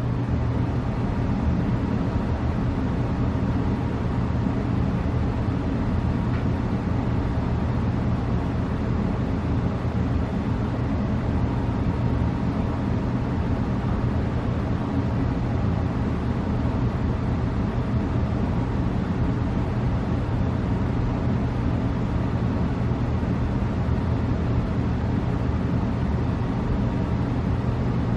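A small motor running with a steady hum and an even noisy rush.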